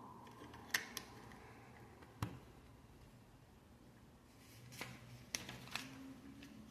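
Lego plastic bricks being handled and pressed together: about six sharp little clicks and taps, spread out irregularly.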